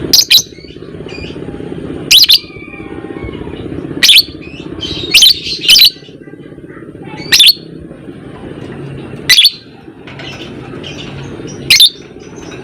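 Lovebird giving short, loud, shrill chirps, about one every one to two seconds, with a quick pair in the middle. A steady low background noise runs underneath.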